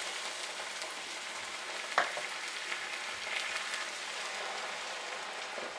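Pan of garlic, onion, white beans and freshly added chicken broth sizzling steadily over medium-high heat, with one sharp knock about two seconds in.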